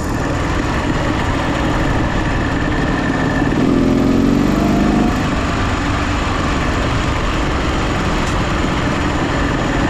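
Motorcycle engine running steadily, with a brief rise in engine pitch from about three and a half seconds in that drops off suddenly at about five seconds.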